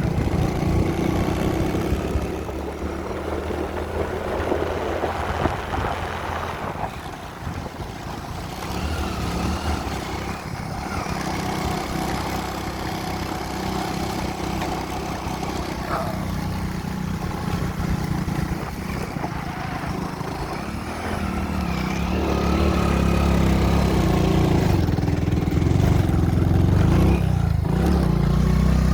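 A motor vehicle's engine running steadily, getting louder over the last several seconds.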